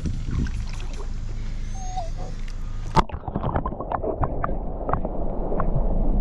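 Shallow lake water lapping and splashing at the shoreline, with a steady low rumble in the first half and a sharp knock about halfway through.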